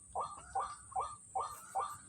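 White-breasted waterhen calling: a steady run of repeated call notes, about three a second.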